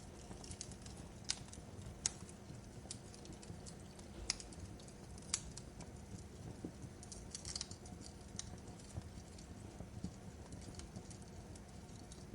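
Fireplace fire crackling: irregular sharp pops and snaps, a few louder than the rest, over a steady low rumble.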